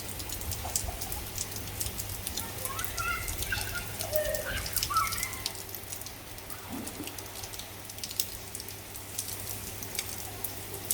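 Rain falling, with many small drops pattering throughout. Faint children's voices rise briefly in the middle.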